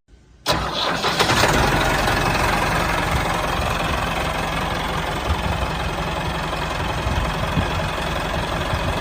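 Small engine running steadily at a constant speed. It cuts in suddenly about half a second in.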